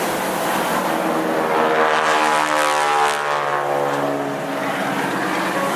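Boeing Stearman biplane's radial engine and propeller flying past, the engine note swelling about two seconds in and then dropping in pitch as the plane goes by, over steady wind noise.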